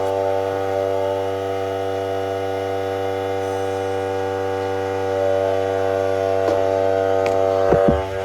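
Electric air compressor running with a steady, loud hum while it inflates a bicycle tire. A few knocks near the end.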